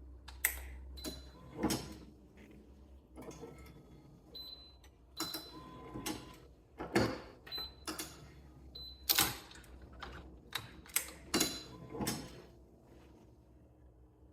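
Irregular clicks and clacks of racquet-stringing work on a stringing machine: clamps, tools and string being handled. Some clicks carry a brief high ring.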